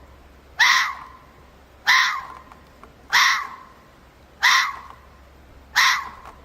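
Fox barking: five short, loud barks, evenly spaced about a second and a quarter apart.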